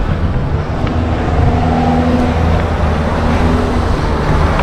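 Wind rumbling over the microphone of a rider climbing a steep road on an electric bicycle, with a motor's low steady hum from about a second in.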